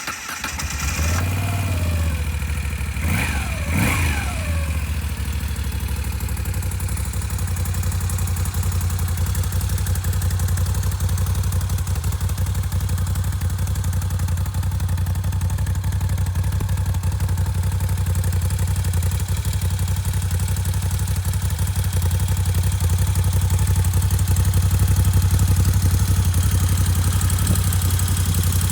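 Moto Guzzi V7 III's air-cooled V-twin just after starting: revved up and down a couple of times in the first few seconds, then idling steadily.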